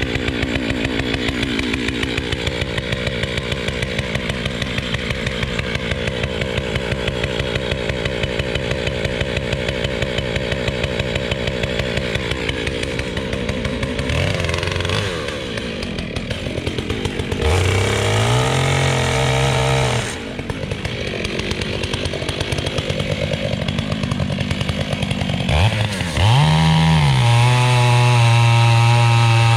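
A Stihl MS 661 C-M two-stroke chainsaw idles with an even throb for about the first half. It is then revved in bursts, and in the last few seconds it runs at a steady, loud, lowered pitch, as it does when the chain is held under load in a cut.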